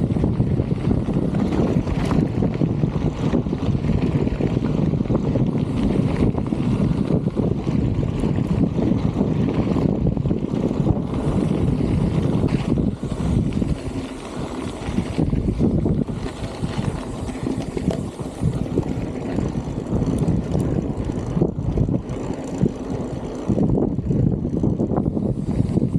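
Strong wind buffeting the microphone while riding a bicycle: a loud, steady low rumble that eases slightly for a while past the middle.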